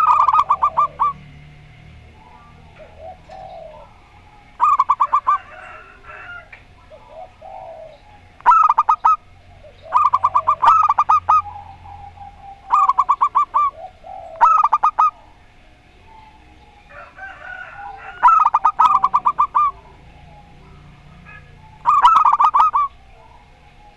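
Zebra doves (perkutut) cooing back and forth, about nine phrases in all. Each phrase is a quick run of pulsed notes lasting about a second, with gaps of one to four seconds between phrases.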